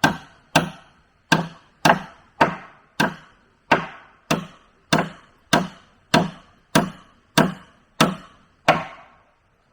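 Wood being chopped with a blade: steady, evenly paced strikes, just under two a second, about fifteen in all, stopping near the end.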